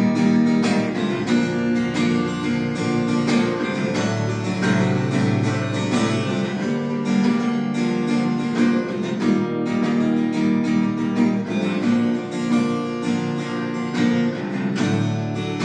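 Acoustic guitar music, plucked and strummed, with no singing.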